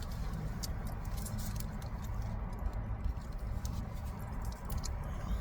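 Close-up eating sounds: scattered small clicks and crackles from chewing a beef burrito and handling its wrapper, over a steady low rumble.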